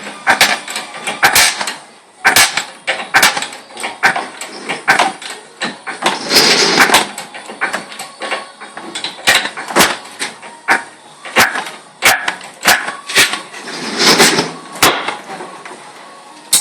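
Irregular sharp metal knocks and clicks of tools and parts being worked on an engine bay, with a rushing noise lasting about a second, about six and a half seconds in and again about fourteen seconds in.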